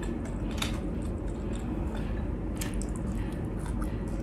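A person eating with the mouth close to the microphone: wet, squishy chewing of soft cooked string beans from pinakbet, with a few sharp mouth clicks.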